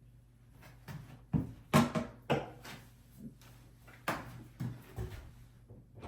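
Irregular knocks and clunks of hands and parts working in and around a bathroom vanity cabinet, a handful of sharp strikes clustered about a second and a half in and again around four to five seconds in.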